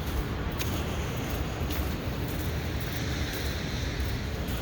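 Steady city street noise: a low traffic rumble under an even hiss, with a few faint irregular taps.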